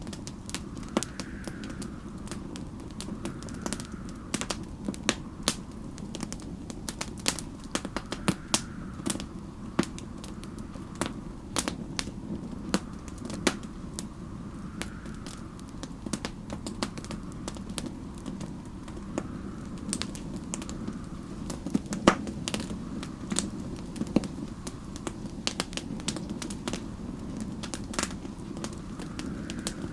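Wood fire crackling, with frequent sharp pops and snaps over a steady low rumble. A faint snowstorm wind whistles, rising and falling every few seconds.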